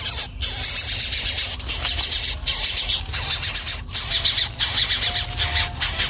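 Nestling birds giving shrill, raspy begging calls in a dense chorus that pulses several times a second with brief breaks.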